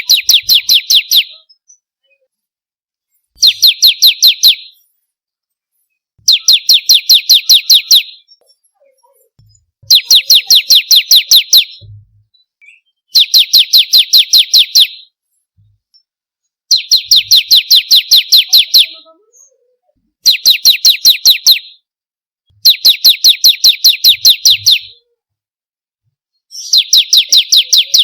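Bar-winged prinia (ciblek) song: repeated phrases of rapid, sharp, evenly spaced notes, about eight a second, each phrase lasting about a second and a half, with a pause of a second or two between phrases.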